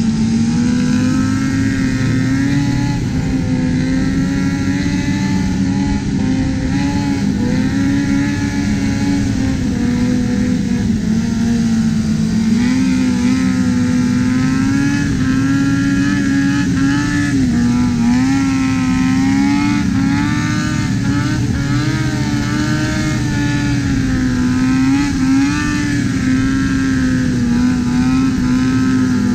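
Sport-bike engines running at high, fairly steady revs, the pitch rising and dipping slightly with the throttle, over rushing road and wind noise.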